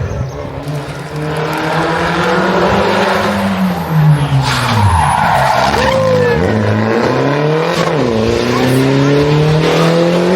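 Rally car engine revving hard and climbing through the gears. About halfway through the revs drop sharply under braking, with a burst of skidding tyre noise, then the engine picks up and accelerates through the gears again.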